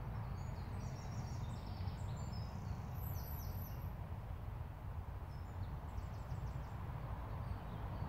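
Songbirds singing quick, high chirping phrases in two spells, the first over the first half and the second near the end, over a steady low rumble.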